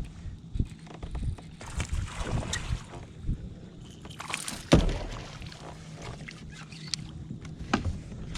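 Kayak moving on the water: irregular splashing and knocks against the hull, with one loud thump a little under five seconds in.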